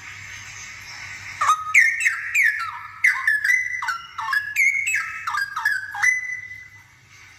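Straw-headed bulbul singing a loud, bubbling phrase of quick falling whistled notes, starting about a second and a half in and stopping near six seconds.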